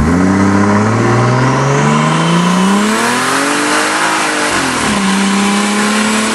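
Toyota 2JZ-GTE inline-six with a single T67 turbo, heard from inside the truck's cab, accelerating hard at about 12 pounds of boost. The revs climb for about four seconds, drop sharply on a gear change around four and a half seconds in, then start climbing again.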